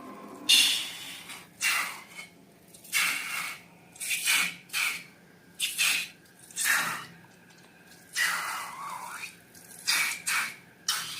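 Slime being squished and worked by hand: a string of short, irregular wet squelches about once a second, with one longer squelch about two-thirds of the way in.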